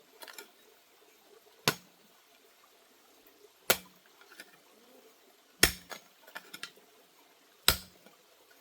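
A sharp knock or strike repeated about every two seconds, four times, each followed by a few fainter clicks.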